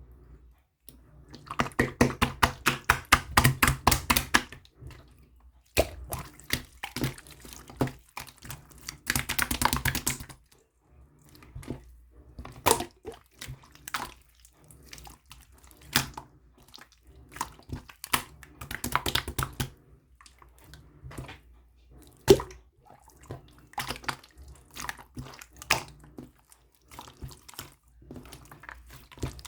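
Blue slime being squished and pressed by hand, making wet clicking and popping sounds: quick runs of clicks twice, with scattered single pops in between.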